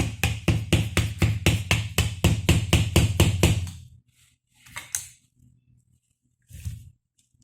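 A power tool knocking rapidly and evenly, about six knocks a second over a low motor hum, while a fastener on a steering gearbox is loosened; it stops about four seconds in, and a couple of single clunks follow.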